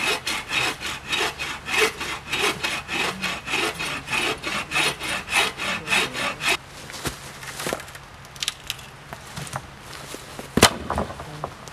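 Folding hand saw cutting through a small log with rapid, even back-and-forth strokes, about four a second; the sawing stops a little over halfway through, followed by a few light knocks and one sharp knock near the end.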